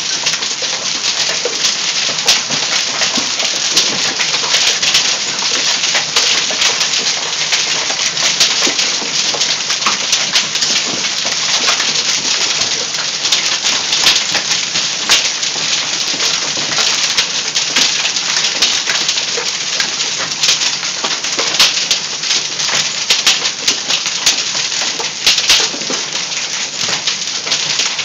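Heavy hail of about quarter to golf-ball size pelting down without letup, a dense clatter of countless sharp hits over a steady hiss of falling ice.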